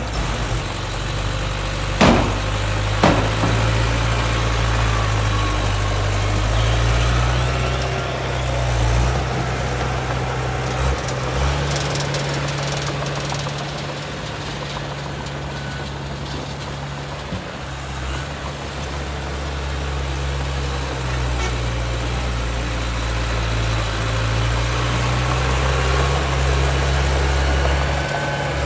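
Heavy diesel engine of earthmoving machinery running steadily, rising and easing a few times, with two sharp metallic knocks about two and three seconds in.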